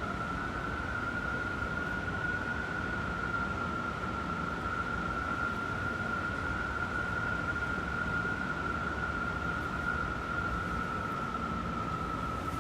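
Strong wind howling: one steady, high-pitched howl that barely wavers in pitch, over a continuous rush of wind noise.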